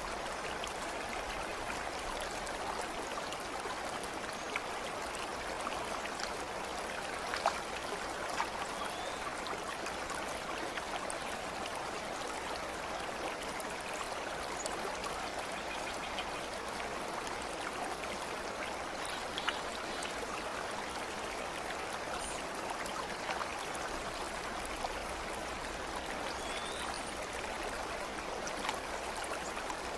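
A stream running steadily, with a continuous babble of flowing water and a few brief sharper splashes or drips scattered through it.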